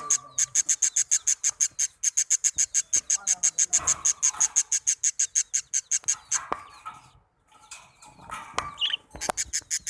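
Young birds chirping rapidly and evenly, about six high-pitched chirps a second, breaking off about six and a half seconds in and starting again near the end, with a couple of sharp clicks in the gap.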